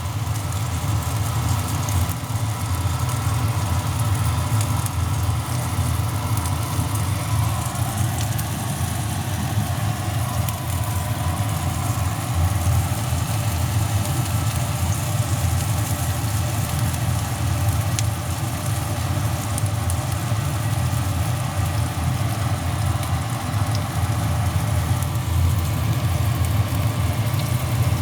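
A steady low rumble, like a small motor or fan running, with a few faint ticks.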